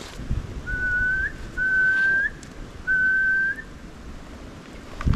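Three steady whistled notes, each lasting well under a second and turning up slightly at the end, a short gap between them.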